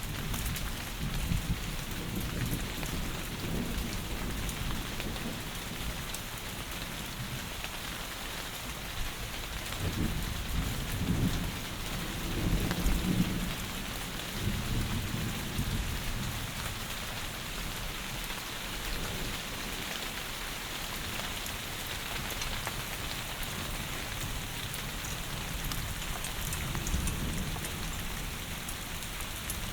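Heavy rain falling in a steady hiss, with low rolls of thunder that swell up and fade; the loudest rumble comes about ten to sixteen seconds in.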